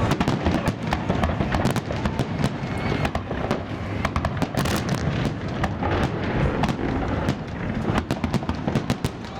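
Fireworks salute going off in a rapid, continuous volley of bangs and crackles, several reports a second over a low rumble.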